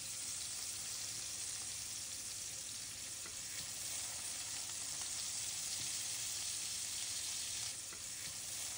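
Raw burger patties frying in hot oil in a pan: a steady sizzling hiss with faint crackles, a little louder through the middle as more patties go in.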